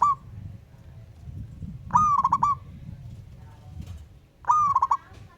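Zebra dove song: two loud phrases about two and a half seconds apart, each a bent opening coo followed by a quick run of short staccato notes, with the end of a third phrase at the very start.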